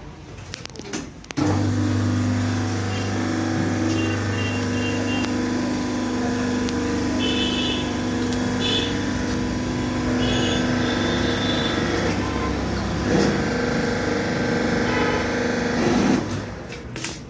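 Electric motor of a hydraulic power unit running with a steady low hum. It switches on abruptly about a second and a half in and cuts off just before the end.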